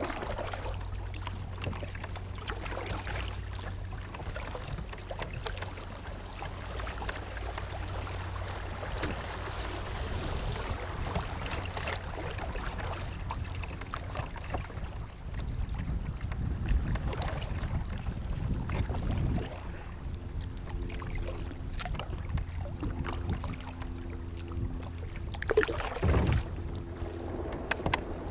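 Kayak moving on a river: a steady wash of water noise with wind rumbling on the microphone, and a louder thump near the end.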